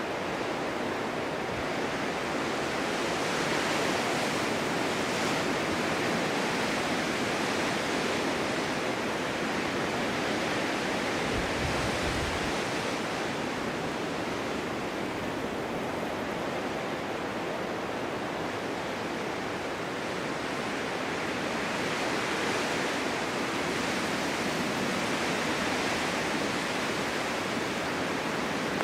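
Snowstorm wind blowing steadily, a rushing hiss that swells and eases in slow gusts, with a brief low rumble about twelve seconds in.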